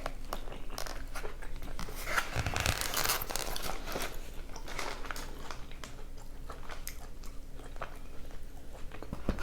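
Close-up eating sounds of carne asada fries: crunchy bites and wet chewing.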